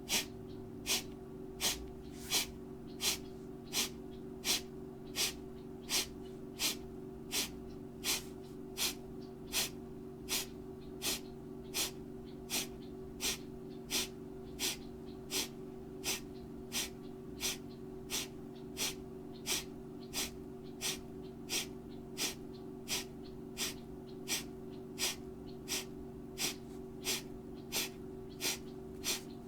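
Kapalabhati (breath of fire): short, forceful exhalations pushed out through the nostrils in a steady rhythm of about three every two seconds, with quiet passive inhalations between.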